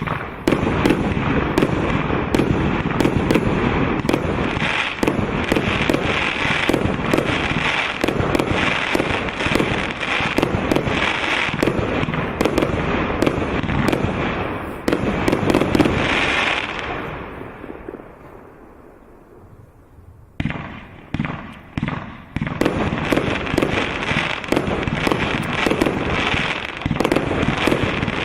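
Fireworks cake with 183 shots firing rapid volleys of bangs and crackle. About two-thirds of the way in, the firing dies away to a short lull, then restarts with a few separate bangs and builds back to a dense barrage.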